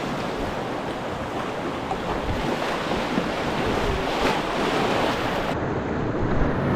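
Rushing river whitewater, a steady noise picked up close to the microphone, with a few faint knocks along the way.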